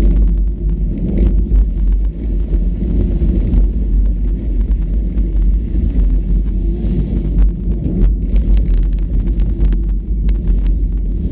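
Off-road vehicle travelling on a rough trail: a steady low rumble with wind buffeting the microphone, and a cluster of sharp clicks and rattles in the last few seconds.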